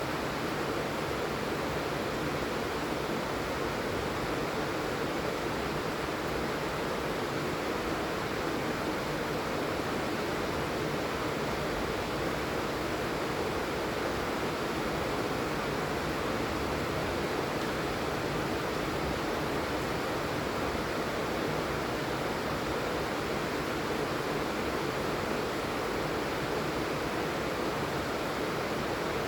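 Steady heavy rainfall: an even, unbroken hiss of rain with no distinct drops or other sounds standing out.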